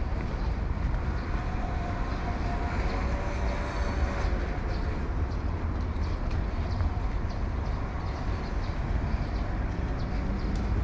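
A train running across the steel railway bridge, a steady heavy rumble with faint high tones that come and go in the first few seconds.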